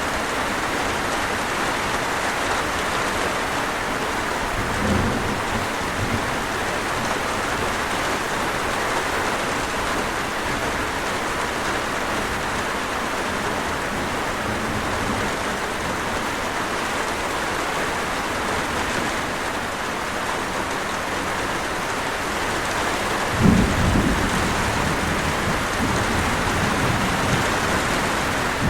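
Steady heavy rain with a constant even hiss, and rolls of thunder: a brief low rumble about five seconds in and a louder one about four-fifths of the way through.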